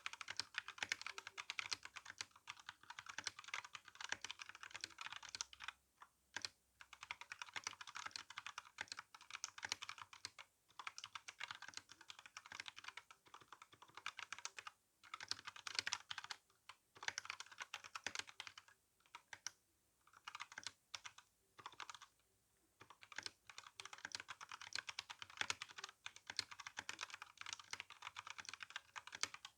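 Rapid, continuous typing on an RK61 mechanical keyboard with brown (tactile) switches and GSA keycaps, the keystrokes clattering with a few brief pauses.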